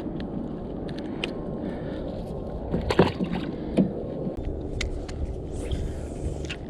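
Knocks and clicks of gear being handled in a kayak, over a steady low rumble; two louder knocks come about three seconds in and again just under a second later.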